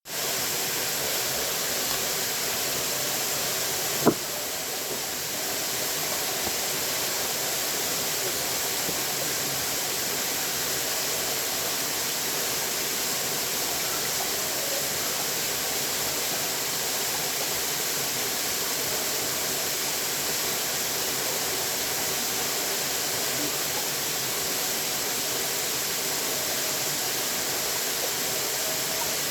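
Running water rushing steadily, an even hiss-like flow with no change. A single sharp click about four seconds in.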